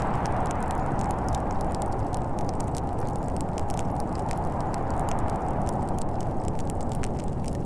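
Wood fire crackling in a fireplace, with many small sharp pops, over the steady low rush of snowstorm wind.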